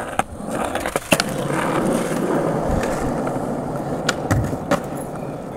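Skateboard rolling, its wheels making a steady rolling noise, with several sharp clacks and knocks along the way.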